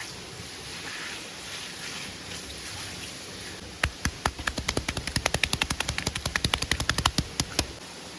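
Steady rain, then about a second and a half in from the middle, a rapid run of sharp knocks or cracks, several a second, for about four seconds before stopping.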